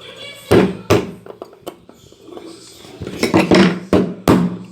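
Hard parts knocking and clinking as they are handled and set down, with a few sharp knocks about half a second, one second, three and a half seconds and four seconds in.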